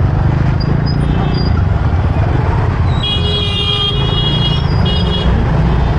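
Road traffic with a steady low rumble of engines and wind, and a vehicle horn honking about halfway through: one long honk, then a short second one.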